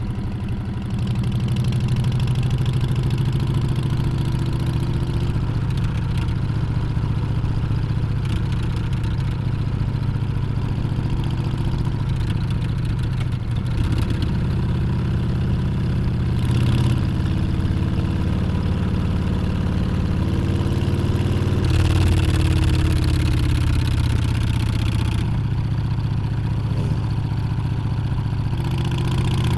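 Harley-Davidson Street Bob's Milwaukee-Eight 114 V-twin running under way, its revs shifting up and down a few times, with brief bursts of wind hiss.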